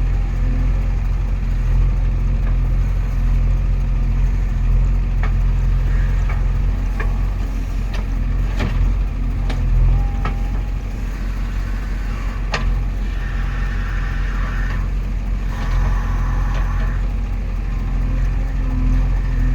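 A heavy diesel engine running steadily, with a few sharp knocks and, a little after the middle, two short stretches of hiss.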